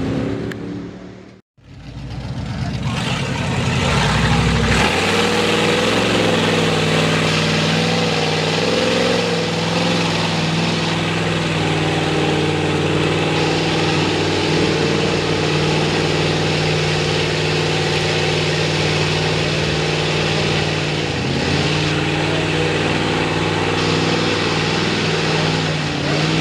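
Mega mud truck's V8 with open headers running loud and steady at a fairly constant pitch. The sound cuts out abruptly about a second and a half in, then comes back.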